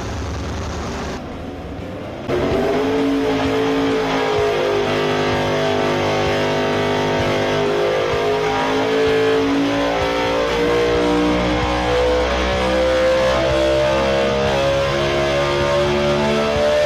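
Dodge R5-P7 NASCAR pushrod V8 race engine running at high rpm, its pitch climbing and easing in slow sweeps as it revs. It comes in loudly about two seconds in, after a quieter stretch of noise.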